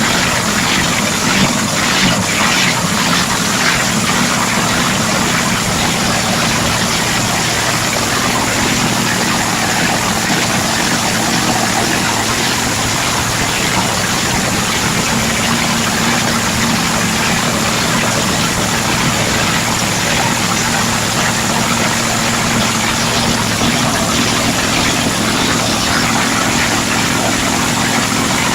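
A vehicle engine idling steadily, with a constant low hum under a broad hiss; a few light clicks in the first few seconds.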